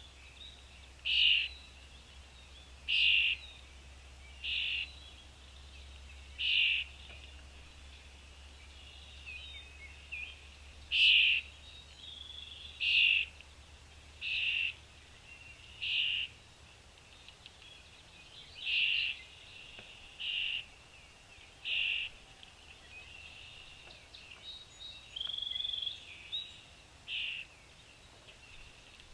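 A single bird repeating a short, high call about every one and a half to two seconds, with a longer call near the end.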